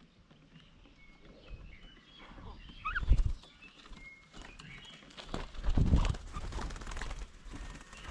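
Birds at a bird table giving short chirps and a brief rising call, over a faint outdoor background. Low thuds about three seconds in and again around six seconds in are the loudest sounds.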